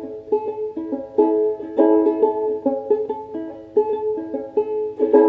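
Ukulele strummed and picked in a chord pattern between sung lines.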